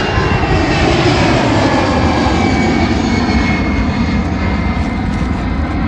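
Airplane passing low overhead on takeoff: a loud, steady engine roar with a faint whine slowly falling in pitch.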